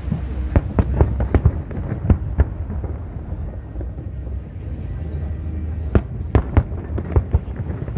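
Fireworks bursting in quick runs of sharp bangs: a cluster of about eight in the first two and a half seconds and another cluster near the end, over a steady low rumble.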